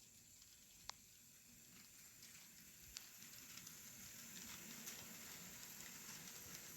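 N scale model train pulled by Kato ES44AC locomotives running on the track. It makes a faint stream of small clicks and rattle from the wheels over the rails, with a low motor hum, and grows steadily louder as it comes closer. Two sharper clicks stand out, about one and three seconds in.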